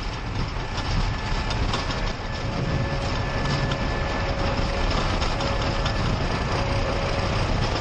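Airliner's engines at takeoff thrust and the rumble of the takeoff roll, heard inside the cockpit: a loud steady noise with a deep rumble and two faint steady tones above it.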